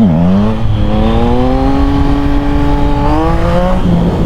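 Yamaha MT-09's three-cylinder engine pulling under acceleration, its note climbing slowly, then rising quickly and dropping near the end at a gear change.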